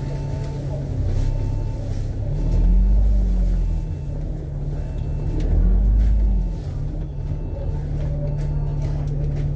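Double-decker bus's diesel engine heard from inside the cabin, running steadily, then revving up and easing back down twice with a deep rumble before settling to a steady note again.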